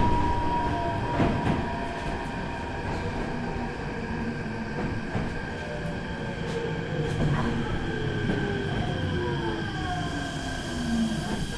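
Meitetsu 4000-series electric train heard from inside the car as it slows for a station. The inverter-driven motors whine in several tones that fall in pitch over the second half, over steady wheel-and-rail rumble with occasional clicks.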